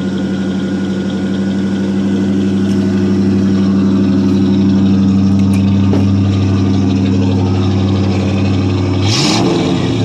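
1985 Chevrolet C10's 305 small-block V8 idling steadily on fast idle while it warms up after a cold start. Near the end there is a short rushing noise and the engine note shifts.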